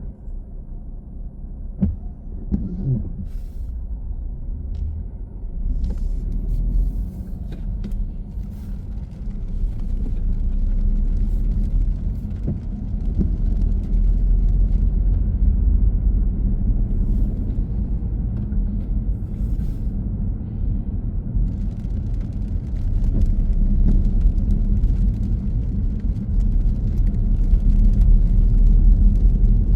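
A car's low rumble of engine and road noise while driving, growing louder in steps as the car picks up speed.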